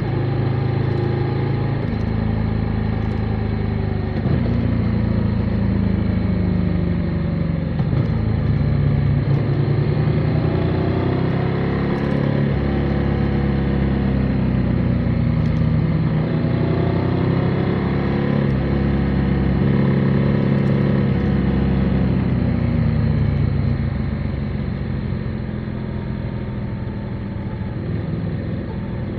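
Motorcycle engine running while riding, its pitch rising and falling repeatedly with throttle and gear changes, then easing off and dropping slightly in level near the end.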